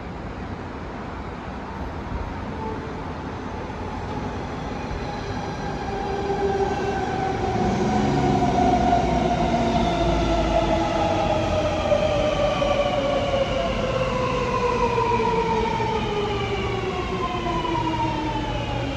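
Sydney Metro driverless train (Alstom Metropolis) pulling into a station platform. Its traction motors give a whine of several tones that falls steadily in pitch as the train brakes to a stop, over the rumble of the wheels.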